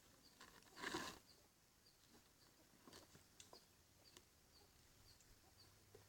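Near silence: a faint short high chirp repeating about three times a second, with a few faint clicks and a brief rustle about a second in.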